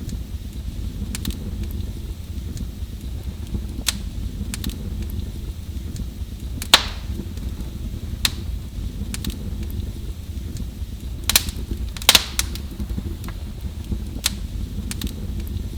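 Wood fire burning in a fireplace: a steady low rumble with irregular sharp crackles and pops, the loudest pops about halfway through and again about three-quarters of the way through.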